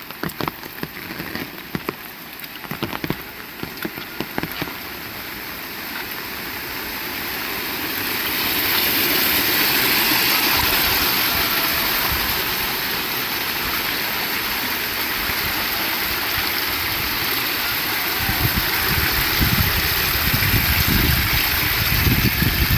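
Heavy rain: separate drops pattering sharply at first, then swelling a few seconds in into a steady, loud downpour. Near the end an irregular low rumble joins the rain.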